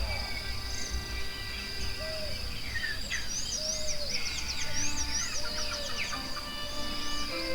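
Birds chirping and singing in quick repeated phrases over soft background music with long held notes, with a steady high-pitched tone underneath.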